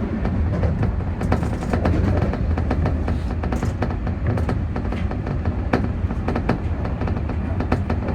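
Keio Inokashira Line electric commuter train running, heard from inside the front car: a steady low rumble of wheels on rails with many short clicks from the track.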